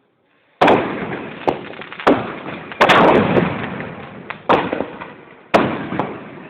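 Fireworks exploding: about six loud bangs, the first about half a second in, each trailing off in a long fading rumble, the biggest about three seconds in.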